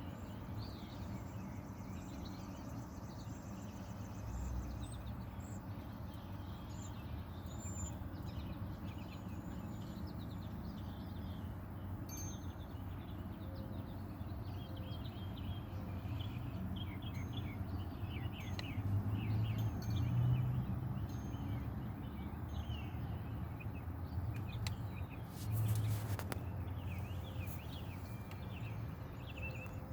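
Songbirds chirping and trilling, many short calls throughout, over a steady low background rumble that swells briefly twice in the second half.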